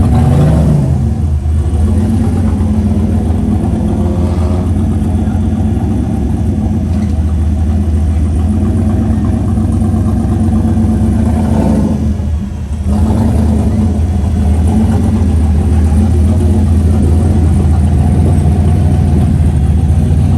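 Car engines running in a steady drone, the pitch rising and falling near the start and again about four seconds in, with a brief drop about twelve seconds in.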